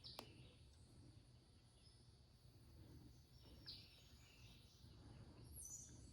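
Near silence: faint low background hum, with one small sharp click just after the start and a couple of faint short high chirps later on.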